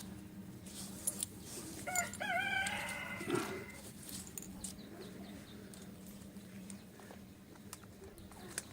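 A rooster crowing once, about two seconds in: one wavering call lasting nearly two seconds, over a steady low hum with scattered light clicks and knocks.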